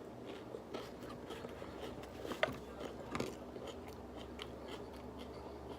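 A person chewing food close to the microphone, with scattered soft crunches and mouth clicks.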